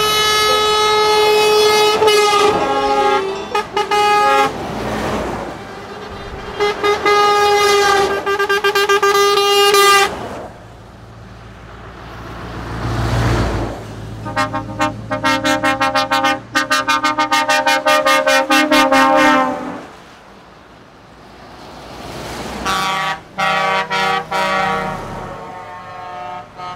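Truck horns sounding in long blasts over the first ten seconds, then a run of rapid repeated toots in the middle and more toots near the end. Truck engine and road noise fill the lulls between.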